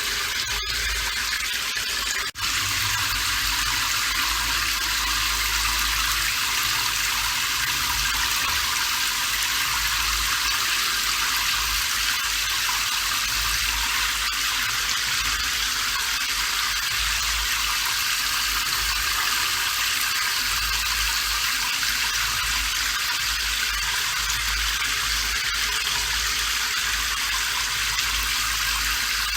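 Steady rain, an even hiss with a low rumble underneath, with a momentary break about two seconds in.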